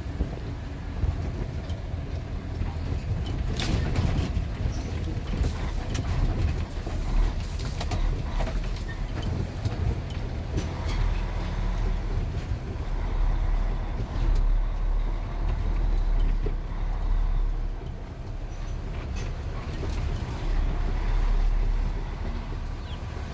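Heavy truck running, a continuous low rumble that swells and eases, with scattered rattles and knocks.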